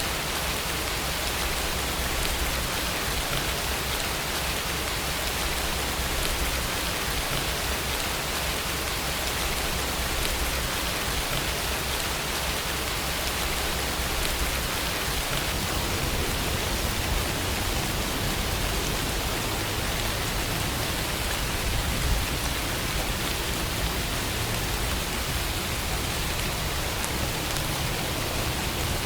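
Steady rainfall: a dense, even patter of rain on a surface.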